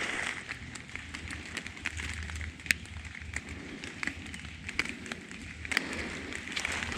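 Footsteps walking through damp leaf litter on the forest floor, a rustling that swells with each step, with scattered sharp ticks of twigs and debris.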